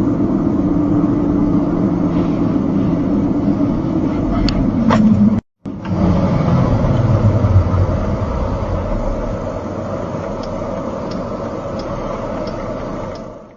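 Car driving: steady engine and road noise. The sound cuts out briefly about five and a half seconds in, then continues and fades out at the end.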